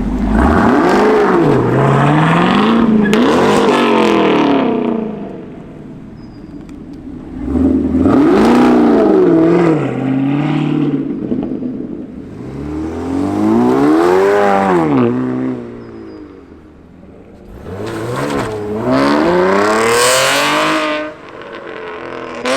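Car engine revving in four loud bursts, each climbing in pitch and falling back, with quieter lulls between them.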